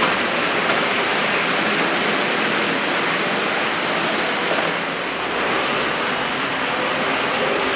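Steady rushing whirr of an OO-gauge model railway layout running, with a Hornby Class 66 model locomotive rolling along the track.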